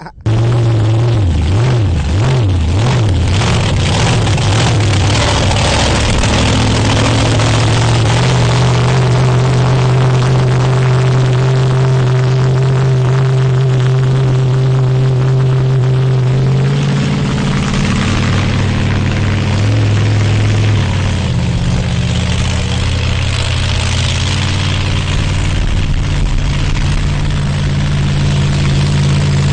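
Monster truck engine running loud and continuous. Its pitch wavers up and down for the first few seconds, then holds steady, and shifts to a new steady note a little over halfway through.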